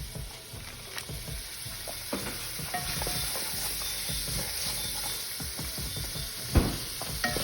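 Chopped shrimp, onions, bell peppers and celery sizzling in oil and butter in a pan while being stirred, the utensil scraping and knocking against the pan. One louder knock comes about six and a half seconds in.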